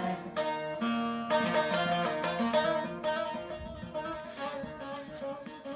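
Instrumental music: a plucked string instrument playing a melody of quick, separately struck notes.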